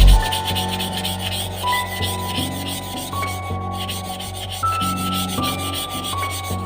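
Rust being sanded or scrubbed off a steel bicycle handlebar, a steady run of rubbing strokes, with faint background music.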